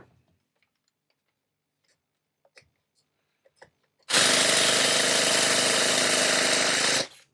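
Electric starter spinning a nitro RC engine over for about three seconds, a brief pause, then spinning it again near the end. The engine does not fire, a sign that too little fuel is reaching it.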